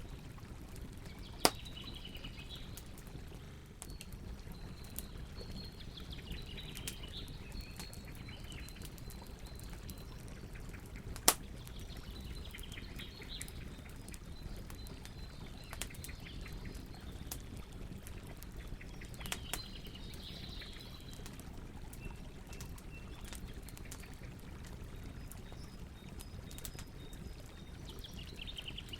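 Campfire crackling over a low steady rumble, with many small pops and two sharp, much louder pops, about a second and a half in and about eleven seconds in. Birds sing in short high phrases several times.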